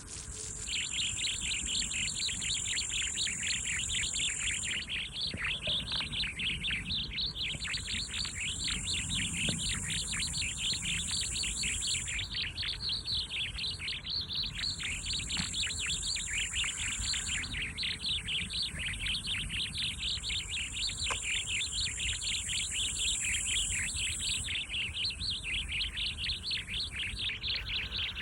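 A dense chorus of many birds chirping continuously, with a very high insect trill that runs in stretches of a few seconds and drops out briefly between them.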